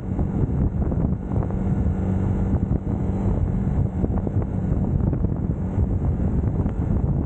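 UM Scrambler X motorcycle engine running while riding at a steady pace, with wind buffeting the camera microphone.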